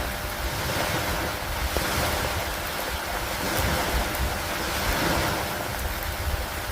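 Lakeside storm ambience: steady rain and wind, the noise swelling and easing every second or two like waves washing in, with a low rumble underneath.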